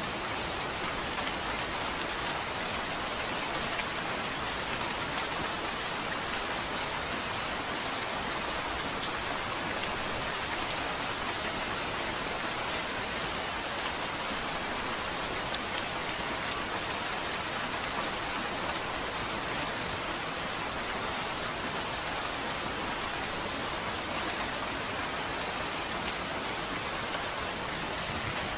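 Steady rain falling on a surface, an even hiss with scattered individual drop ticks, with no thunder.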